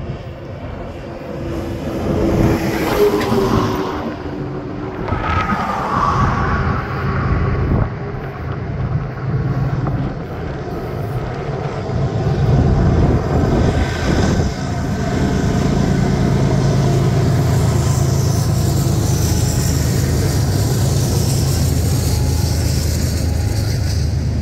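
BNSF diesel locomotives hauling a double-stack container train approach, their engine drone growing louder, then a steady loud rumble as the container cars roll past close by.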